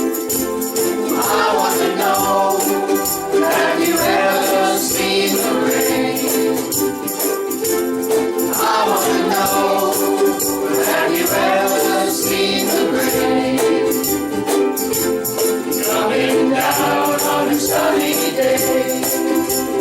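A group of ukuleles strumming chords while many voices sing together, in a steady rhythm.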